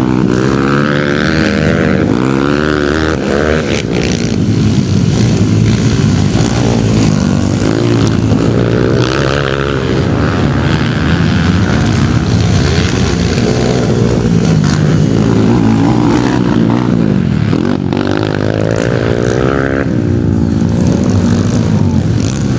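Motocross dirt bike engine running hard, its pitch rising and falling again and again as it is revved and throttled off.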